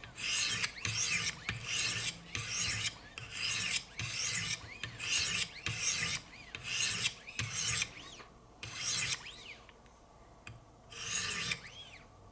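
400-grit diamond stones of a Wicked Edge guided sharpener rasping in quick back-to-back strokes along a hard S90V steel knife edge, about two strokes a second. The strokes stop for a second or two near the end, then start again.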